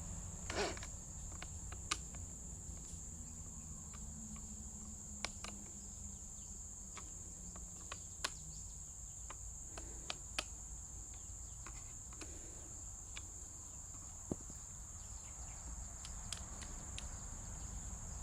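A steady high-pitched insect buzz runs throughout, with scattered sharp clicks and light knocks from handling the pole pruner's metal fittings.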